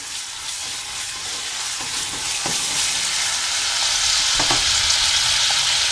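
Chopped ginger, garlic, green chillies and dried red chillies sizzling in hot oil in a non-stick wok, stirred with a spatula at first. The sizzle grows steadily louder, with a couple of faint knocks.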